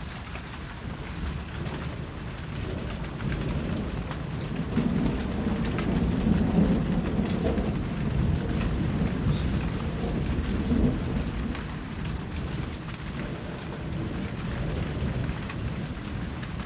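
Steady rain falling, with a low rolling rumble of thunder that swells about four seconds in, is loudest near the middle and dies away.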